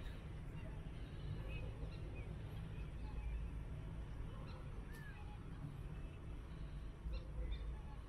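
Waterbirds calling across a marsh: short, scattered calls, with one falling call about five seconds in, over a steady low rumble.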